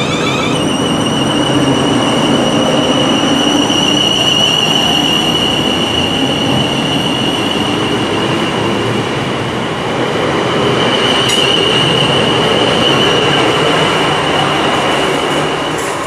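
Passenger multiple-unit train running past at speed: a steady rumble of wheels on rail with a high steady whine over it. There is one sharp click about eleven seconds in.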